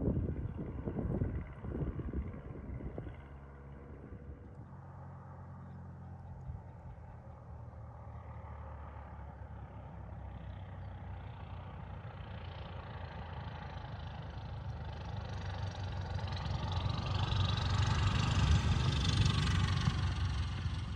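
Small propeller airplane's piston engine approaching, starting faint and growing steadily louder to a peak near the end, with its pitch shifting as it nears and begins to pass. Wind gusts on the microphone in the first few seconds.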